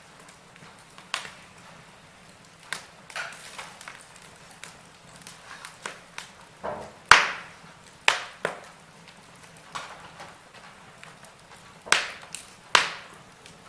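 Wood fire in a fireplace crackling, with irregular sharp pops over a soft hiss; the loudest pop comes about seven seconds in, with two more strong ones near the end.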